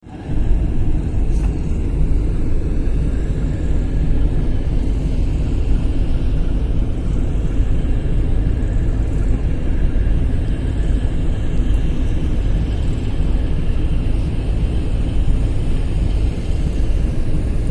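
A steady, loud low rumble with faint steady high tones above it, starting right at the opening and holding an even level throughout.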